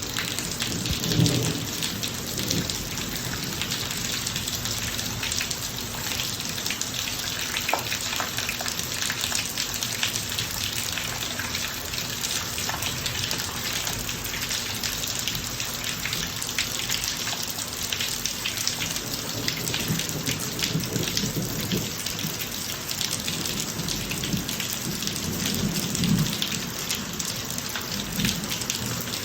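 Steady heavy rain falling on a driveway, with single drops striking close by throughout. Low thunder rumbles about a second in and again near the end.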